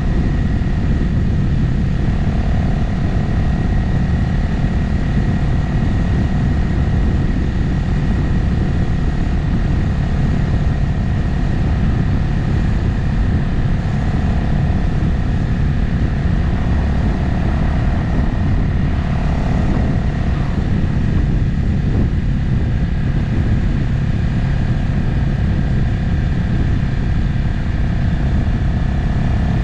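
Motorcycle engine running at a steady cruise, with wind and road noise, as picked up by a camera mounted on the bike.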